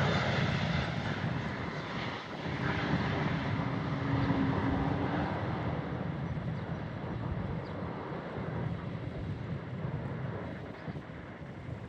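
Jet airliner's engines passing by, a steady roar that slowly fades away as the aircraft moves off.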